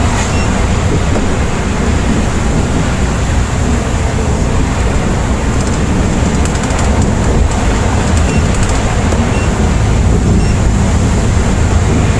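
Volvo B8R coach running along the highway: a steady, loud mix of engine and tyre noise heard from inside the cabin.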